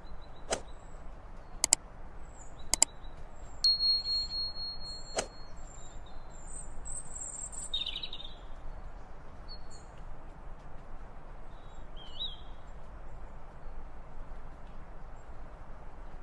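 Birds calling: scattered short high chirps and one held whistle of about a second and a half, over a steady background hiss. Four sharp clicks come in the first five seconds.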